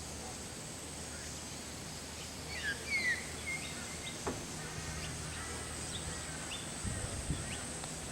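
Outdoor ambience: a steady high insect drone over a low hum, with a bird calling in a few quick chirps about a third of the way in.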